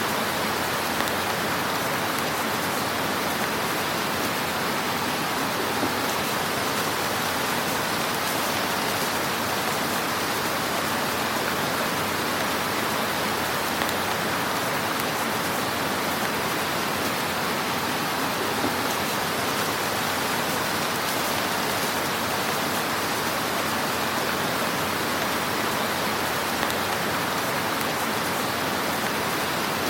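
Wood fire burning in a fireplace: a steady hiss with a few small, faint crackles scattered through it.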